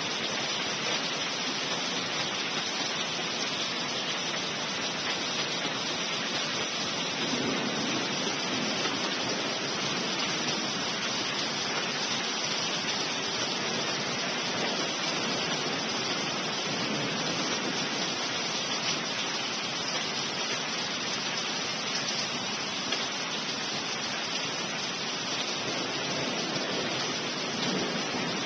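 Heavy rain pouring steadily, an even unbroken hiss with no distinct thunderclaps.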